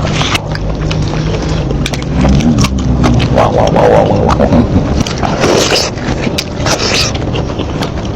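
Close-miked eating of seafood in a thick sauce: wet chewing, smacking and sucking with many short clicks, over a steady low hum.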